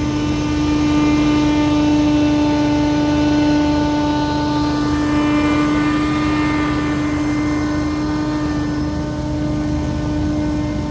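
Scag Windstorm stand-on leaf blower running steadily at working speed: an engine-driven fan with a strong, steady drone over a rush of air.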